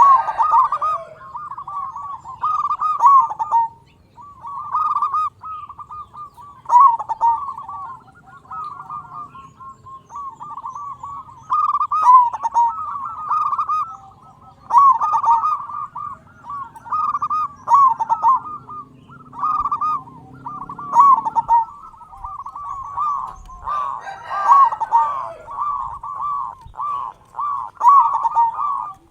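Local zebra dove (perkutut), a big-voiced bird, cooing in full song: phrases of quick rolling coo notes, repeated with short pauses between them.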